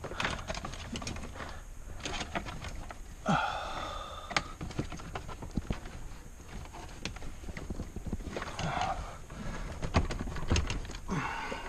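Irregular clicks, knocks and short plastic creaks and squeaks from a Subaru XV's dashboard and trim being tugged and worked loose by hand; the dash is still caught on something and will not come free.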